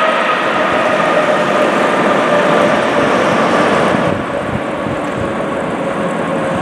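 Jet airliner's engines running after a landing, a loud rumble with a whine that slowly falls in pitch as they wind down. About four seconds in the sound drops a little and turns duller.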